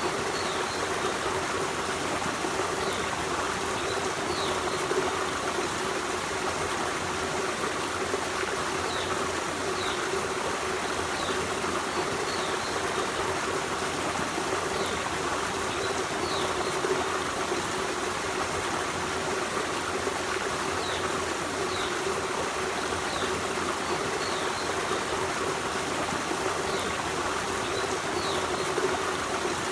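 Forest stream running steadily, an even rush of flowing water. Short high chirps, likely a small bird, come every second or two over it.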